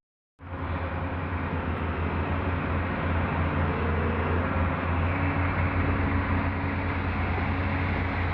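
Tata Hitachi Zaxis 470 excavator's diesel engine running steadily under work, a deep hum with a heavy mechanical rumble, cutting in abruptly after a moment of silence.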